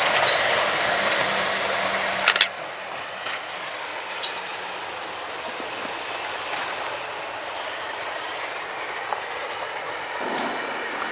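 Train rolling past on the track and moving away, its noise dropping after a couple of sharp clicks about two seconds in.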